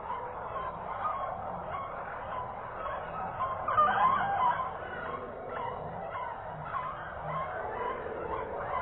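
Many caged birds chattering and calling together in a dense, steady din, with a louder flurry of calls about four seconds in.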